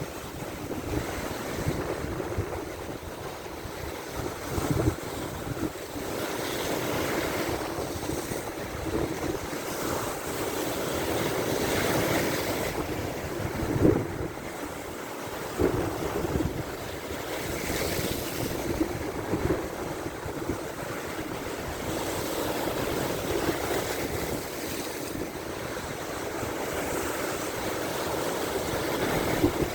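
Big waves in a strong wind surging and breaking on a lake shore, in a continuous swelling wash. Wind gusts buffet the microphone with a low rumble, and there are a few heavier thumps, the loudest about halfway through.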